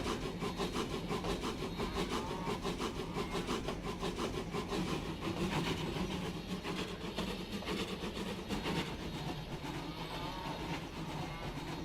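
A small steam tram engine puffing steadily along the line in quick, even chuffs, growing slightly fainter as it goes.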